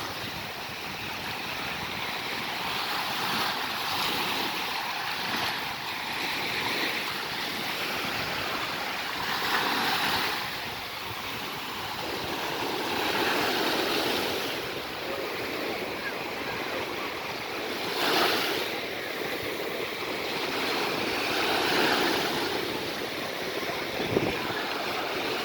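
Sea waves breaking and washing onto the shore, the surf swelling and falling back every few seconds, with wind on the microphone. A brief knock sounds near the end.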